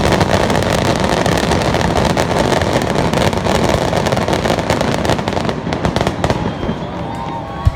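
Aerial fireworks crackling: a dense run of rapid pops that thins out after about six seconds, with a single sharp bang near the end.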